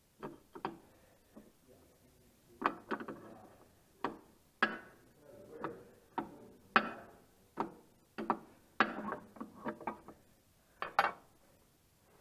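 Irregular metallic clanks and knocks of hand tools and parts against tractor dual-wheel hardware, about a dozen sharp hits at uneven spacing, some ringing briefly.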